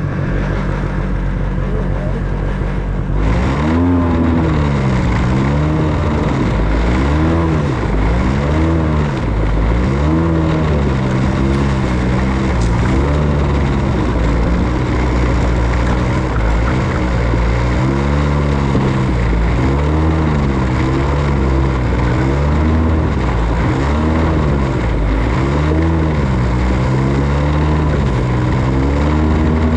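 277cc engine of a homemade machine running, then from about three seconds in revving up and down over and over as it works through snow.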